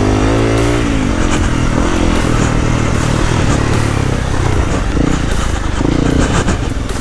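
Honda CRF250L single-cylinder four-stroke dirt-bike engine being ridden, the revs rising and falling as the throttle is opened and closed, with scattered knocks and clatter from the bike over rough ground.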